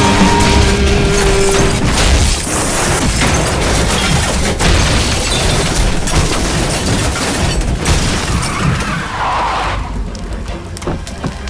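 Film score music under a car crash: loud booms and crashing impacts over the music, fading down about ten seconds in.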